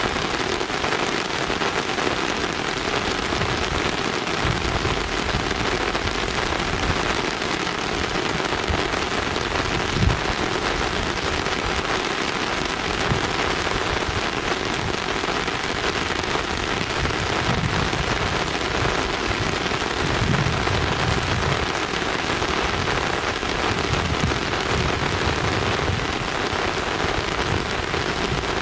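Steady rain falling, a dense even hiss, with a few brief low thumps.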